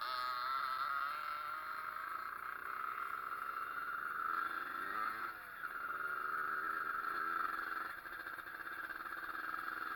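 Small Zündapp two-stroke engine on a pit bike running, its pitch wavering slightly, with a brief dip about halfway through and another near the end.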